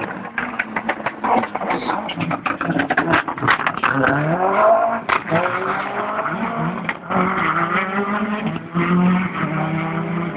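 Rally car engine revving hard and accelerating, its pitch climbing and dropping as it changes gear, with a run of sharp cracks and pops in the first half.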